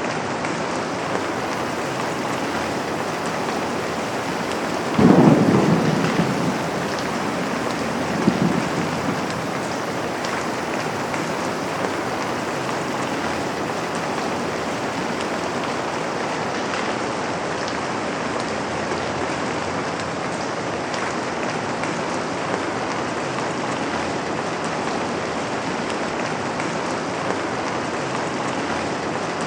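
Steady rain falling on a window. A rumble of thunder breaks in about five seconds in and fades over a second or so, and a smaller rumble follows about three seconds later.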